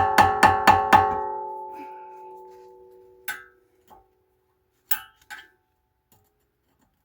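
A quick run of metal-on-metal strikes, about four a second, leaving a ringing tone that fades away over the next two seconds. A few single clicks and knocks follow.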